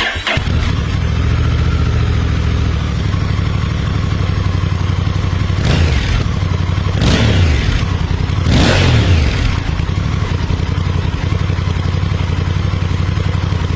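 Honda Hawk 11's parallel-twin engine idling, blipped three times about six, seven and eight and a half seconds in, each rev rising and dropping back to idle.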